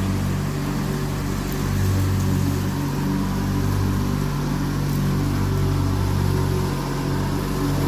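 Engine of a 1997 MTD Yard Machines lawn tractor running steadily, with a slight rise in level about a second and a half in.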